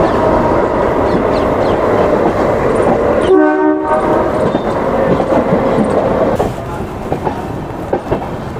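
Passenger train running over the rails, heard from an open coach door: a steady rumble and clatter of wheels on track. A short locomotive horn blast sounds about three seconds in, and the running noise eases a little after about six and a half seconds.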